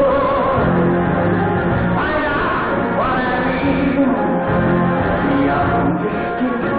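Pit band playing an up-tempo stage-musical number, with singing. The recording sounds dull and low-fidelity.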